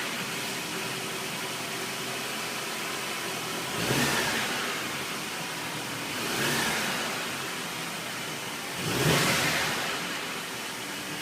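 Mercedes-Benz E 200 CGI's turbocharged four-cylinder petrol engine idling shortly after starting, revved briefly three times, each rev rising and falling back to idle.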